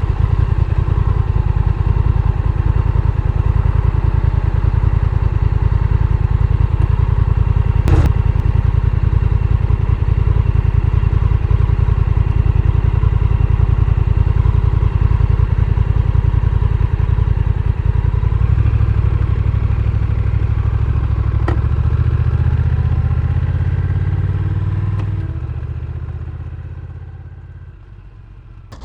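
Honda Rebel 1100's parallel-twin engine running under way, with a single sharp click about eight seconds in. The engine note grows steadier after about eighteen seconds, then dies away sharply near the end as the motorcycle slows.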